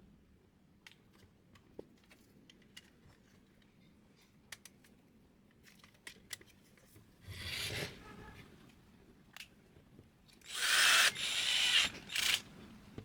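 Light clicks and ticks of parts being handled, then two short bursts of a small power tool about seven and eleven seconds in, the second longer and louder with a brief break in it.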